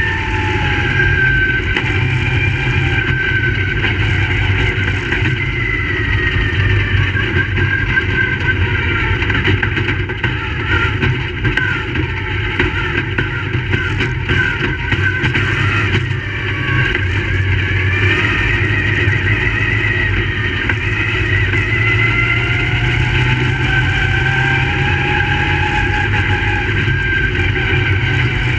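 Crate late model race cars' V8 engines running on a dirt oval. Several engines are heard together, their pitch rising and falling in long repeated sweeps as they lap.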